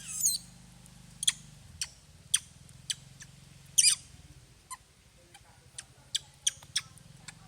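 A baby monkey giving short, high-pitched squeaks, about a dozen scattered through a few seconds, the loudest about four seconds in.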